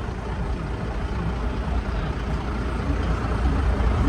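Heavy diesel engine idling: a steady low rumble.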